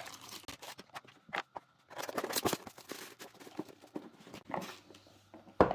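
Hands handling unboxing items: paper and plastic packaging rustling with irregular small taps and clicks, and a louder knock near the end as something is set down.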